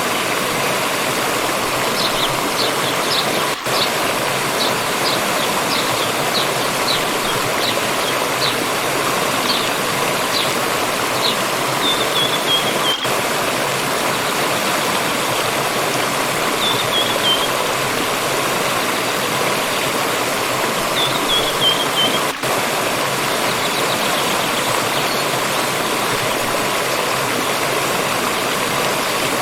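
Forest stream rushing steadily. A small bird sings over it: a run of short high notes, about two a second, for the first ten seconds or so, then a few short falling trills.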